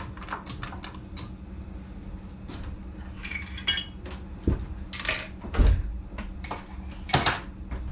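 Metal tooling clinking and knocking as a drill chuck is handled and fitted into a milling machine spindle, with several sharper metallic clanks a little past the middle and near the end.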